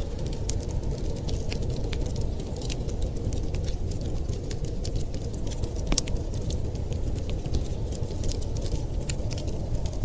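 Wood fire crackling with irregular small pops and snaps, one louder pop about six seconds in, over a steady low rumble.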